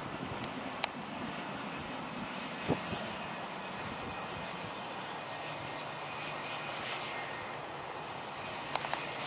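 Airbus A321-231's twin IAE V2500 turbofan engines running at a distance: a steady hiss with a faint high whine. A sharp click comes about a second in, and a few quick clicks near the end.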